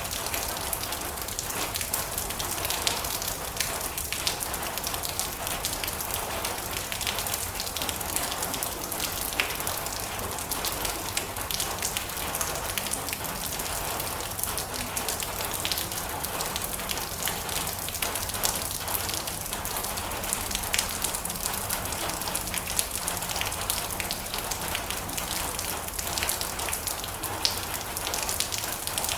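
Steady heavy rain drumming on a metal roof: a dense patter of countless drops with sharper individual ticks throughout.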